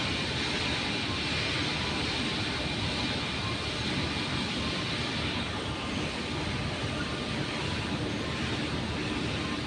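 Steady running of a heavy diesel truck engine, with a hiss over it that fades out about five and a half seconds in.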